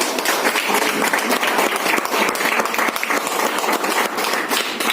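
A group of people clapping their hands: applause made of many rapid, overlapping claps.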